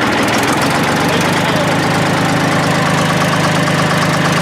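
Diesel engine of an International Harvester 500C crawler dozer running steadily, a low even rumble that firms up about a second and a half in.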